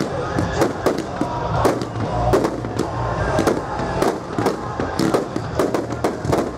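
Aerial fireworks display going off: a rapid, irregular barrage of sharp bangs and crackles, several a second, over a low rumble.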